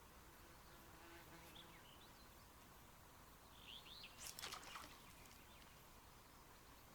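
Near silence with a faint steady hiss, broken a little past the middle by a brief flurry of short high squeaks and clicks, like a flying insect or small bird close by.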